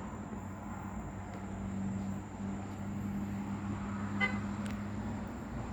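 Road traffic with a steady low hum, and a short car-horn toot about four seconds in.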